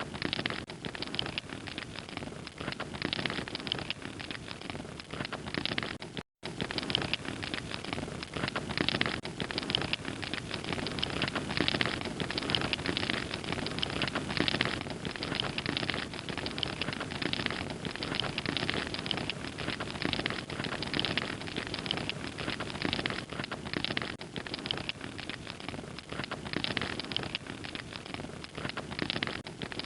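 Wood fire crackling steadily, dense small pops and snaps over a soft hiss of burning. The sound cuts out completely for a split second about six seconds in.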